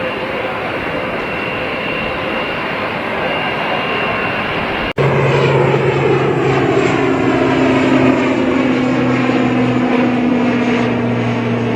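Jet airliner engines. About five seconds in the sound cuts briefly and comes back louder, with a steady low hum and a whooshing sound that slides lower as the aircraft passes.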